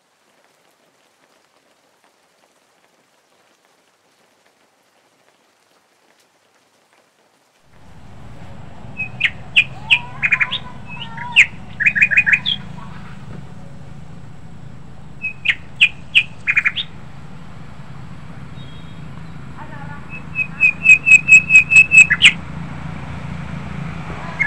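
Silence for the first several seconds, then outdoor ambience with a low steady rumble and a small bird's chirping: short runs of quick, high, sharp notes, the longest about ten notes in a second and a half near the end.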